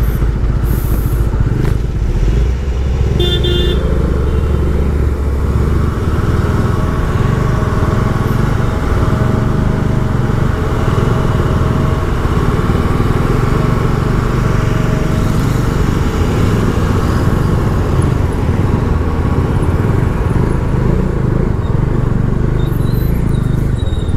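Bajaj Dominar 400's single-cylinder engine running at low speed in stop-and-go traffic, a steady low rumble. A vehicle horn gives a short toot about three seconds in.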